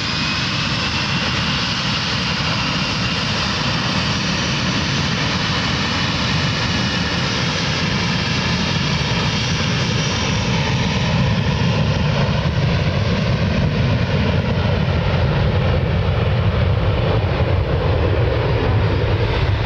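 Jet aircraft engines at takeoff power: loud, steady engine noise with a high whine that rises in pitch over the first few seconds, growing louder about halfway through.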